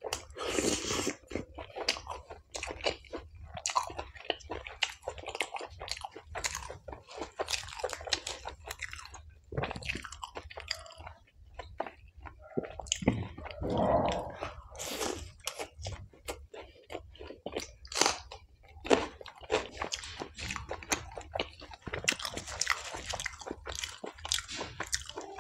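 Close-miked chewing and biting of chole bhature (fried bhatura bread with chickpea curry), with wet mouth clicks and repeated crunches.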